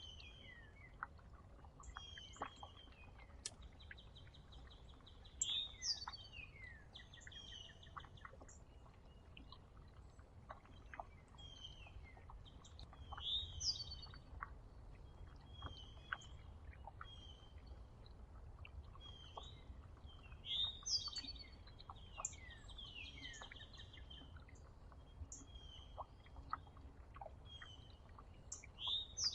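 Small songbirds at a feeder calling: repeated short chirps, fast trilled runs and loud notes that sweep steeply downward, coming in clusters about every eight seconds. Faint scattered clicks and a steady low rumble sit underneath.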